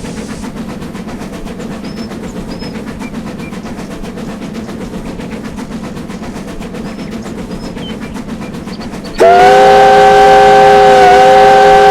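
A train running steadily. About nine seconds in, the locomotive's whistle starts up loud, sounding a chord of several notes at once, and keeps blowing past the end.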